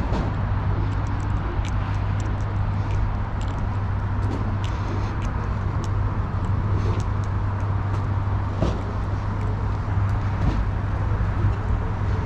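Street traffic noise: a steady low rumble of vehicles with scattered short ticks and clicks.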